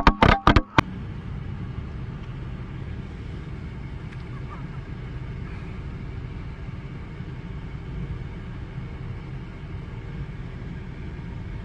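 A car driving: a steady low rumble of engine and road noise. It comes after a few loud, sharp sounds in the first second.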